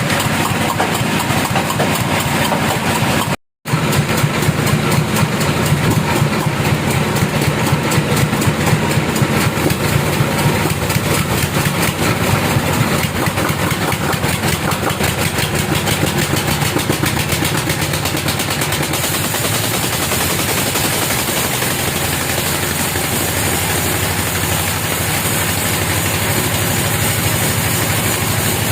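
An engine running steadily with a fast, even pulse. The sound cuts out for a moment about three and a half seconds in.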